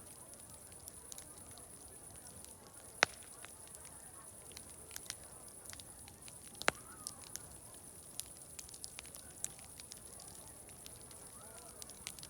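Wood fire crackling, with irregular small snaps and two louder pops about three seconds and nearly seven seconds in, over a steady high-pitched hiss.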